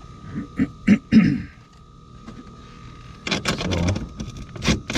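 Metal knocks and clinks from bolts, brackets and a hand tool being handled and fitted: a few in the first second and a half, a busy cluster about three and a half seconds in, and one sharp knock near the end. A faint steady high hum runs underneath.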